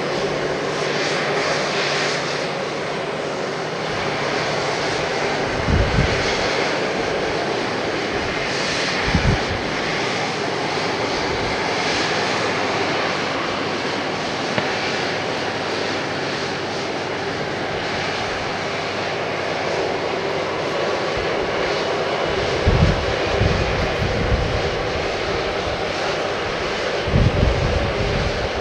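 Airbus A330-300's Rolls-Royce Trent 700 jet engines running at takeoff power: a steady, continuous roar. A few brief low thumps break in, at about six and nine seconds in and twice near the end.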